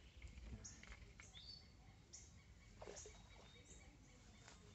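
Faint outdoor ambience: small birds chirping, short high calls about every half second, over a low steady rumble, with a couple of soft knocks.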